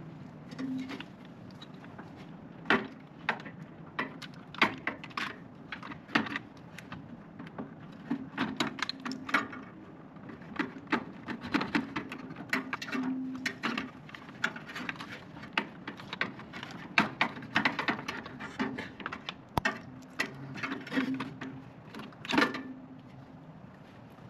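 Irregular clicks, taps and knocks of parts being handled during a microwave control-module replacement, with one louder click near the end.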